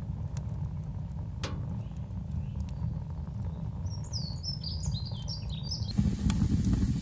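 A small bird chirps a quick run of high, falling notes over a steady low rumble, with one sharp snap early on. Near the end it cuts to the louder hiss and crackle of a wood fire burning in a stove.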